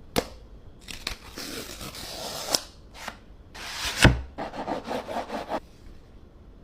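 Phone retail packaging being handled and opened: cardboard and paper rubbing and rustling, with sharp clicks and one louder knock about four seconds in.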